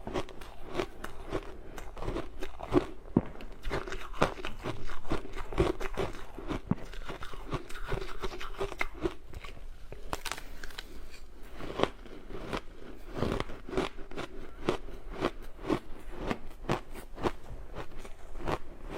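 Close-miked teeth biting and chewing ice, a continuous run of sharp crunches and cracks, several a second.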